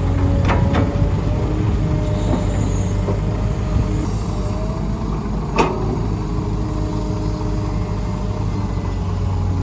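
Heavy diesel construction machinery running steadily, with a few sharp knocks, the loudest a little past halfway.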